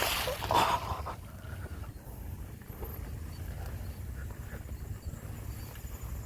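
Mountain bike ridden along a dirt single track. A loud rattle and clatter of the bike over rough ground comes in the first second, then a steady low rumble of tyres and wind on the microphone with small irregular knocks.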